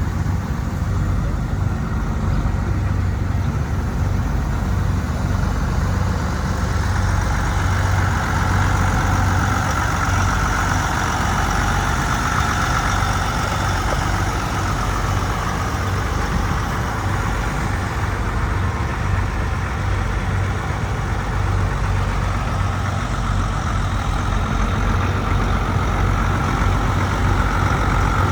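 Case 2290 tractor's six-cylinder diesel engine idling steadily.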